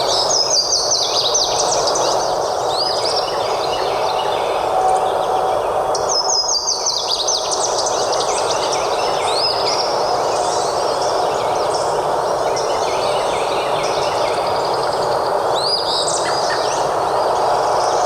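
Songbirds singing in a forest over a steady background hiss. A rapid high trill comes near the start and again about six seconds in, with shorter calls in between and near the end.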